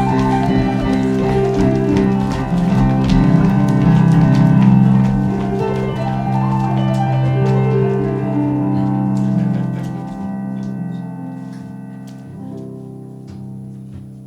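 Live instrumental music on piano or keyboard, with sustained chords and many note attacks, fading down over the last few seconds.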